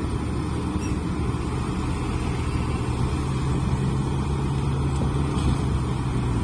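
A motor vehicle's engine running steadily, a low drone whose pitch lifts slightly about two and a half seconds in and then holds.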